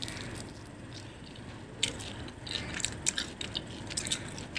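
Crisp crackling of a fried banana-and-chocolate spring roll being bitten and chewed: a few irregular, sharp crunches, mostly from about two seconds in.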